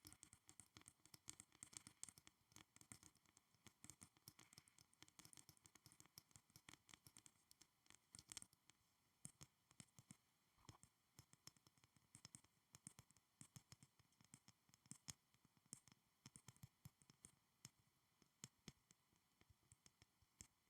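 Soft, rapid fingernail tapping and light scratching on school supplies: many small irregular clicks a second, with no pause.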